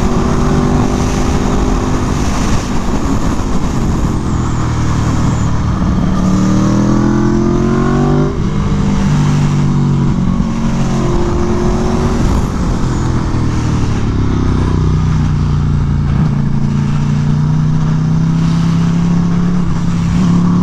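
Aprilia Tuono V4 1100 Factory's V4 engine heard from on board while lapping a track: the note falls as the bike slows for corners and rises again as it accelerates out, several times over, with a sharp change about eight seconds in.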